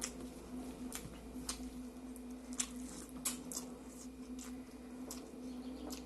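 Close-miked eating sounds: wet chewing with sharp lip-smacking clicks at irregular intervals, over a steady low hum.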